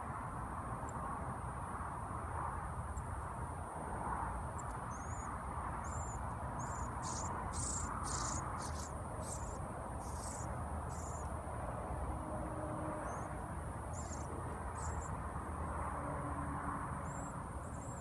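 Short, high, thin chip calls from a parent songbird and its fledgling at feeding. The notes are scattered at first, come in a quick flurry of louder ones around the middle, then thin out again, over a steady high hiss and low background rumble.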